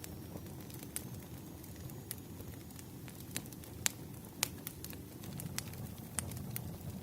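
Wood fire burning, with a steady low rumble and irregular sharp crackles and pops of the burning logs, two of them standing out a little before halfway through.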